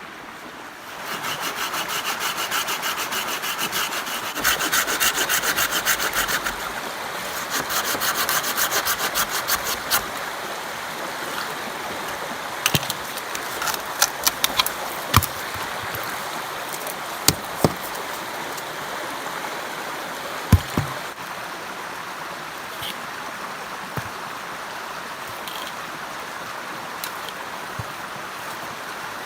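A hand tool rasping in quick rhythmic strokes for about nine seconds, like sawing or scraping. Then come scattered sharp knocks and clicks over a steady rushing background.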